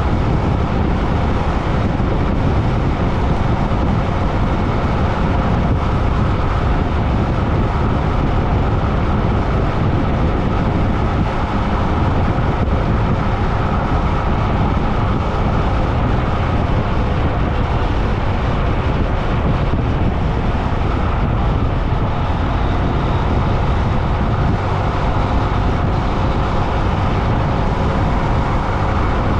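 Steady rumble of wind and road noise on a camera microphone while riding along a road, loud and unbroken, with a faint steady hum in it.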